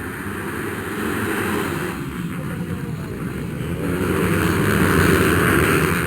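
Motocross bike engine running hard, its sound swelling about a second and a half in and rising again to its loudest near the end.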